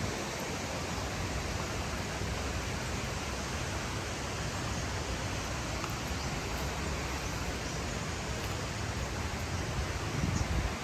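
Waterfall with a steady rush of falling water. A brief low rumble rises near the end.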